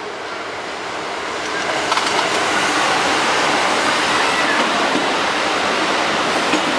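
Train running through the level crossing: a rushing wheel-and-rail noise that grows over the first two seconds and then holds steady, with a few sharp clicks.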